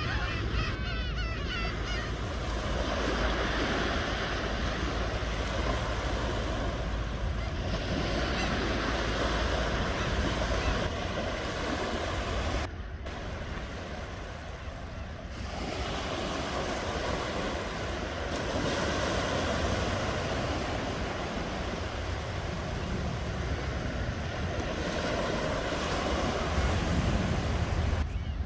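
Ocean surf: waves breaking and washing on the shore in slow swells over a steady low rumble, easing off for a few seconds about halfway through.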